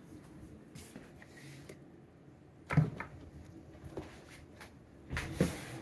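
A few short knocks of things being handled in a kitchen, with the sharpest one about three seconds in.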